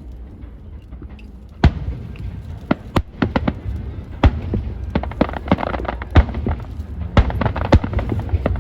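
Fireworks going off: after a short lull, a string of sharp bangs about every second, with smaller crackling bursts between them, over a low steady rumble.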